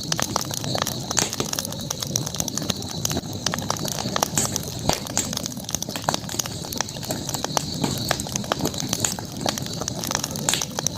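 Campfire crackling, with irregular sharp pops and snaps of burning wood over a steady high hiss.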